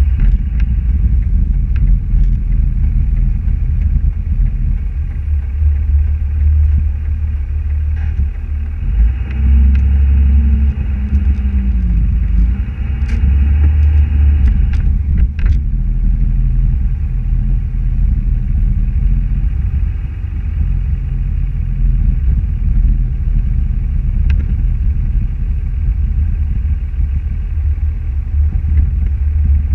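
Car driving: a steady low rumble of engine and road noise, with a fuller, louder stretch from about 9 to 15 seconds in that stops suddenly.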